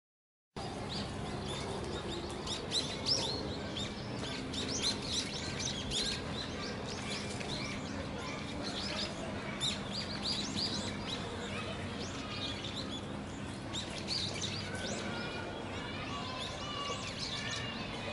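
Birds chirping: a dense stream of short, high chirps, with a run of trilling calls about fifteen seconds in, over a steady low hum.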